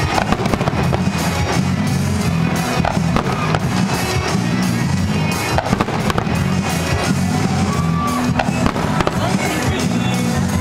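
Fireworks exploding and crackling over loud music, with many sharp bangs and pops through the whole stretch.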